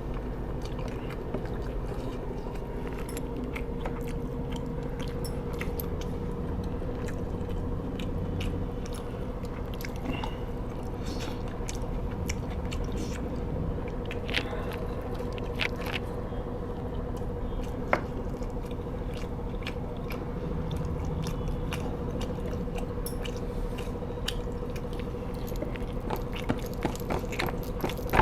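A person chewing and biting food close to the microphone, with scattered small crunches and clicks, over a steady low hum.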